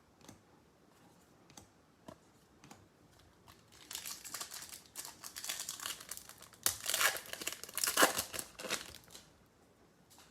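A baseball card pack's wrapper being torn open and crinkled: a few faint ticks first, then about five seconds of crinkling and tearing, loudest in two bursts near the end.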